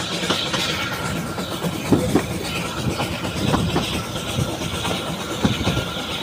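Narrow-gauge train running, heard from an open carriage window: the coaches rumble and the wheels knock irregularly over the rail joints.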